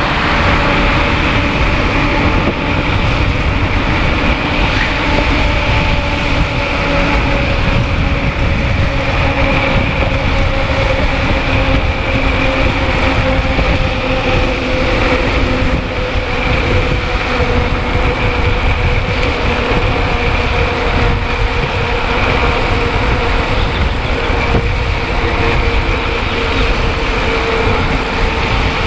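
Wind rushing over the microphone and tyre noise from a mountain bike coasting fast downhill. A steady humming tone runs through it and slowly falls in pitch as the bike eases off.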